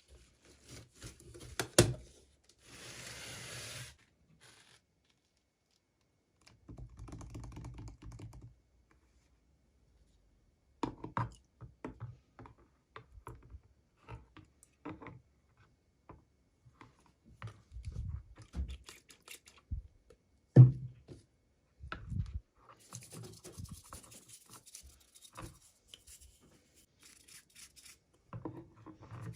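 Hands unboxing small plastic toy miniatures: tearing and rustling of packaging in short stretches, mixed with many small clicks, taps and knocks of plastic pieces, the sharpest knock about twenty seconds in.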